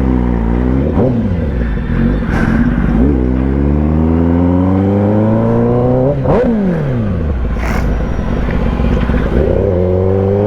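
Kawasaki ZX-10R inline-four engine pulling under acceleration while being ridden. The pitch climbs and drops with each gear change, and the revs fall away about six seconds in before the engine pulls up again near the end.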